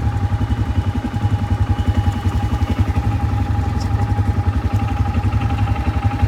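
ATV engine idling steadily, a fast even low putter with a thin steady whine above it.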